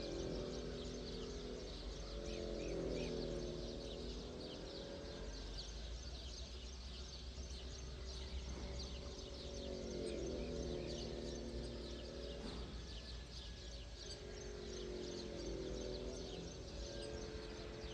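Many small birds chirping and twittering in a dense dawn chorus, over a steady low rumble. Low sustained tones swell and fade three times, about every six seconds.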